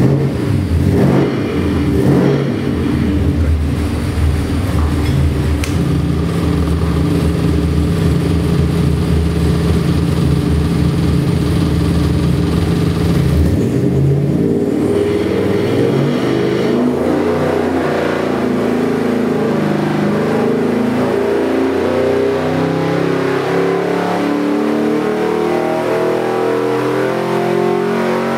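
Oldsmobile 350 V8 crate engine with MSD Atomic fuel injection running on an engine dyno: a steady low running note with a couple of quick blips of the throttle, then from about halfway a long, steady climb in revs under load, a dyno pull.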